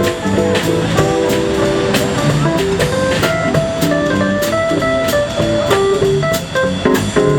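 Instrumental jazz, a band playing a melodic passage over a steady, evenly spaced beat.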